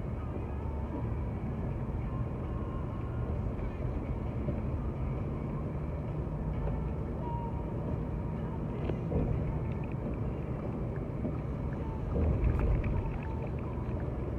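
Steady road and engine noise inside a moving car's cabin on the highway, with brief louder swells about nine and twelve seconds in.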